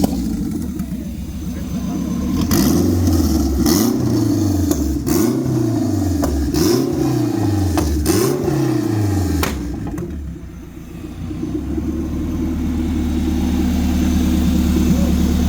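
Car engine revved up and down about five times in quick succession, with a sharp crack between revs, then settling into a steady low drone after a brief lull.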